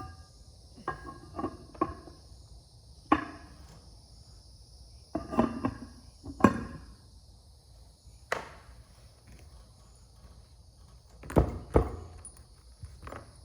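Metal parts and tools knocking and clinking as they are handled, about a dozen irregular strikes, some with a short metallic ring, the loudest a double knock near the end. A steady high-pitched drone runs underneath.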